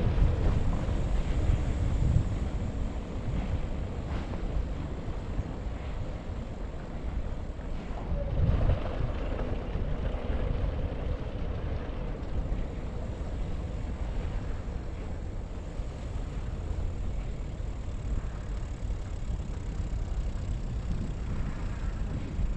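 Steady rumble of wind on a GoPro's microphone during a bicycle ride, swelling briefly about eight seconds in.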